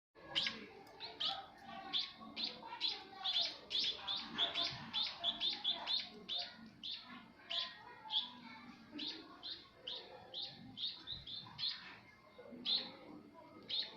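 White-headed munia (bondol kaji) chirping: short, high chirps repeated about two or three times a second.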